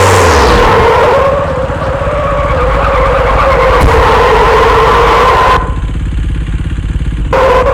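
KTM Duke 390's single-cylinder engine running at steady high revs. The sound dulls abruptly for about a second and a half near the end, then comes back.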